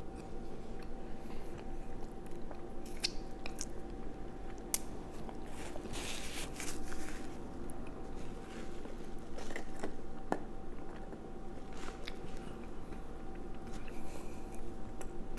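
A person chewing a mouthful of soft pretzel close to the microphone, with scattered small clicks and mouth smacks over a faint steady hum.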